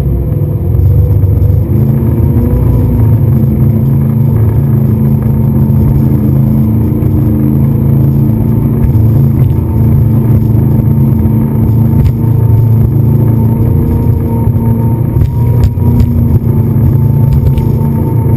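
A motor engine running steadily at speed, with a heavy low rumble and a few sharp knocks near the end.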